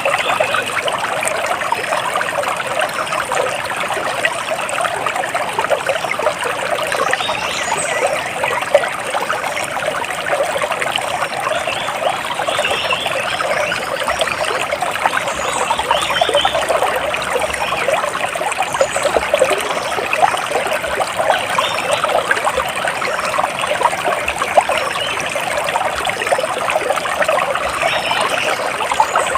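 Running water trickling and splashing steadily, with faint bird chirps now and then.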